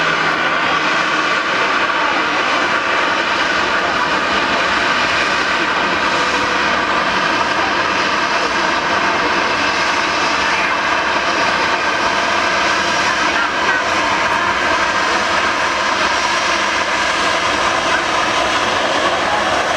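Airliner's engines running steadily at taxi power, a continuous sound with several steady held tones, as the plane taxis toward the runway.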